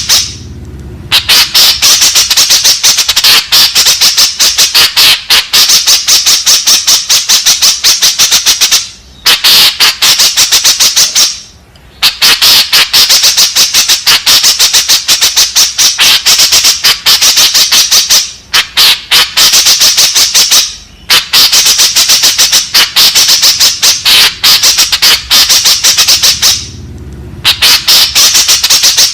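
White-breasted woodswallow (kekep babi) calling in loud, rapid runs of harsh chattering notes, broken by short pauses every few seconds.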